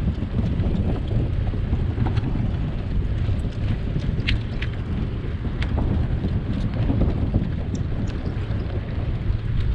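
Wind rumbling on the microphone of a moving bike, with a few light ticks about halfway through.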